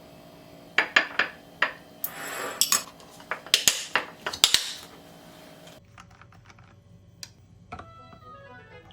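Utensils clinking and scraping against dishes: a string of sharp clicks and short scrapes over the first five seconds, then only a few faint ticks.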